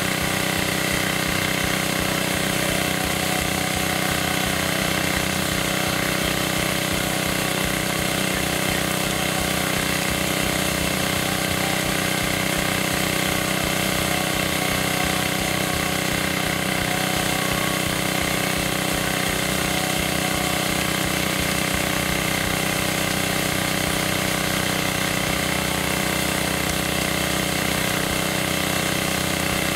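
Small gasoline engine of a homemade 2-inch gold dredge running steadily at constant speed.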